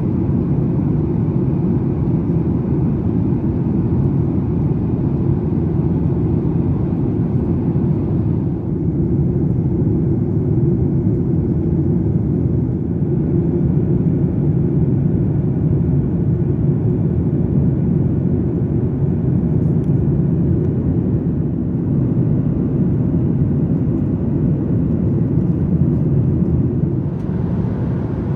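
Steady in-flight cabin noise of a Boeing 737 MAX 8 in its climb: a low, even rumble from its CFM LEAP-1B engines and the airflow over the fuselage. The higher hiss softens a little about eight seconds in and comes back near the end.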